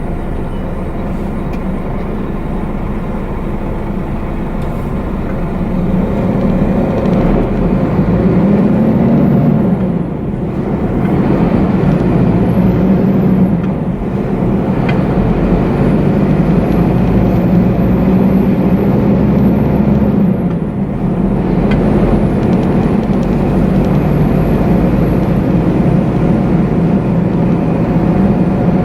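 Scania truck's diesel engine pulling and accelerating, its pitch rising and then dropping several times with a short dip in loudness at each drop, as the gears change. A faint high whistle rises and falls along with the engine.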